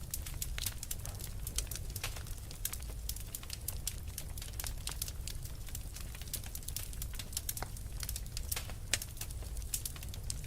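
Wood fire crackling in a fireplace: many irregular sharp pops and snaps from burning logs over a steady low rumble of the flames.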